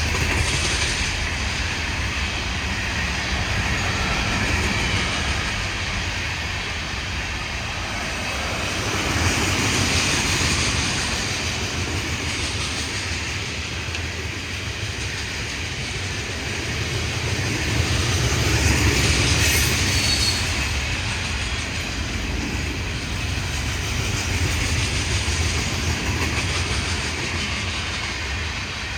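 Florida East Coast Railway freight train rolling past, its cars' wheels rumbling and clicking over the rail joints. The sound swells louder twice, about ten and nineteen seconds in.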